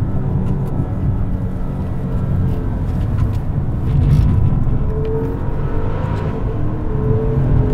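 Maserati Ghibli Trofeo's Ferrari-derived 3.8-litre twin-turbo V8 pulling the car along under throttle in manual mode, its note rising twice as it revs up, heard from inside the cabin.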